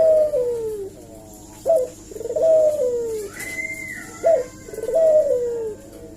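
Barbary dove (burung puter) cooing repeatedly. Each phrase is a short, sharp note followed by a drawn-out coo that falls in pitch, and the phrases come about every two and a half seconds.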